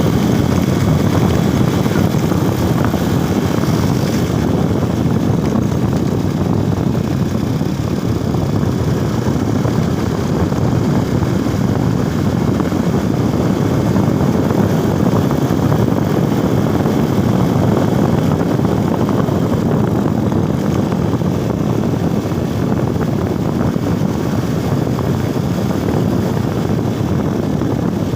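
Motorcycle on the move: a loud, steady rush of wind and engine noise that holds without letting up.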